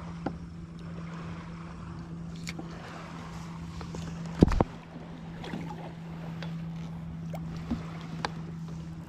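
Sounds of a kayak on the water while fishing, over a steady low hum. A few small clicks and knocks come through, and one loud knock about four and a half seconds in.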